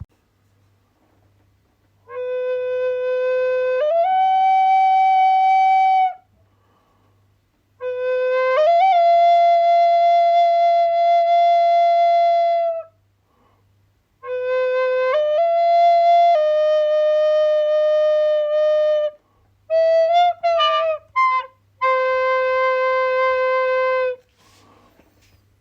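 A solo wind instrument playing a slow melody in long held notes, each phrase stepping up in pitch and ending in a short pause for breath, with a quick run of short notes about twenty seconds in before a last long note.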